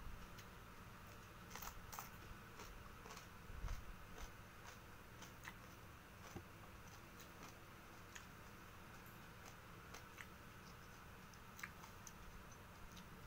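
Faint close-up eating sounds: scattered soft crunches and mouth clicks of chewing raw round eggplant and fried rice, with a low bump a little under four seconds in.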